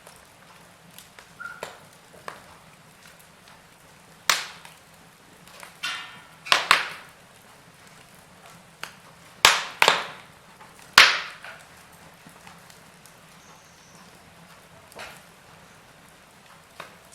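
Logs burning in a fireplace, crackling over a faint steady hiss, with scattered small ticks and several loud, sharp pops spread through.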